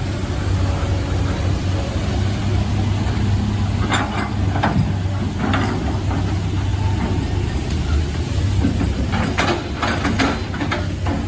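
Heavy machine engine running steadily at a low hum, with several sharp metallic knocks about four to six seconds in and a quick cluster of them near the end.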